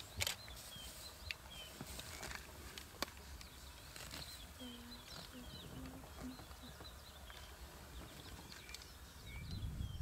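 Small birds chirping and whistling in short high notes throughout, over quiet bush ambience. There are a few sharp clicks in the first three seconds and a short run of low notes about halfway through.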